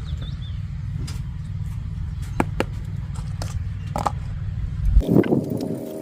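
Wind buffeting the microphone as a steady low rumble, with a few light clicks and scrapes. About five seconds in the rumble cuts off abruptly and a steady droning hum with several pitched tones takes over.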